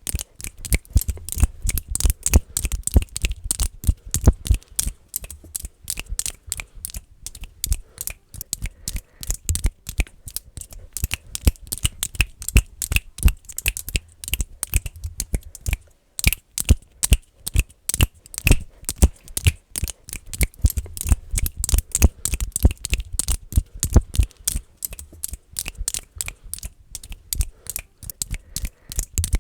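Fast, dense finger clicking made close to the microphone: many sharp clicks a second in irregular clusters, with a brief pause about halfway through.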